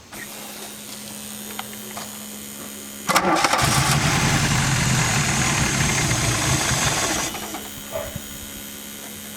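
A 32-year-old car engine being cranked by its starter for about four seconds without catching, then released, over a steady low hum. The failure to start points to a fuel supply problem, and the fuel pump is suspected.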